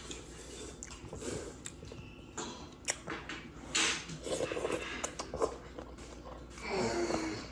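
A person chewing and biting food close to the microphone: scattered wet mouth smacks and small clicks, with a short hiss about four seconds in. A brief vocal sound comes near the end.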